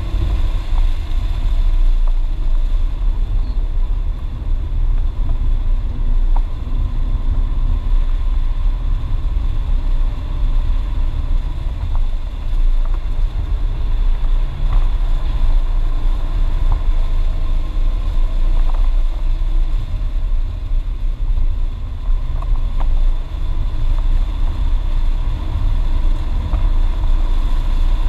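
BMW E36 328is with its 2.8-litre straight-six under way on a race track, heard from inside the cabin: steady engine drone mixed with heavy low road and wind rumble.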